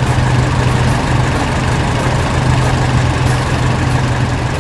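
A heavy farm machine's engine idling steadily, a low, even hum with no change in speed.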